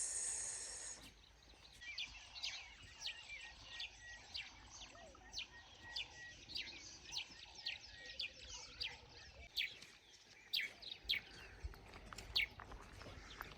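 Birds calling: many short, sharp chirps that fall in pitch, one or two a second, over a faint background hiss.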